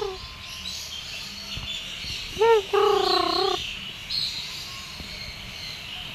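Small birds chirping faintly in the background. About two and a half seconds in there is a short pitched call: one brief note, then a longer wavering one.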